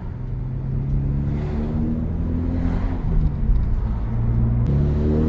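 Mazda 3 four-cylinder engine through a Borla axle-back exhaust, heard from inside the cabin while accelerating. The exhaust note climbs in pitch, dips about three seconds in, then climbs again.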